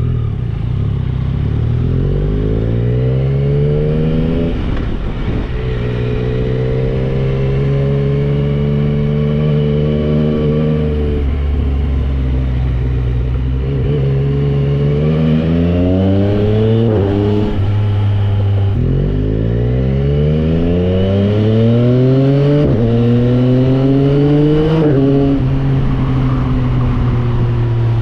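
Yamaha Tracer 9 GT's three-cylinder engine through a Dominator aftermarket exhaust, accelerating through the gears. The pitch climbs in rising sweeps and drops back at each shift, with one stretch held at a steady pitch for several seconds.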